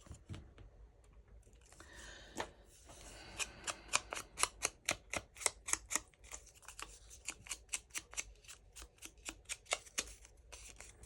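Scissors snipping through paper: a steady run of short snips, about three a second, starting a few seconds in.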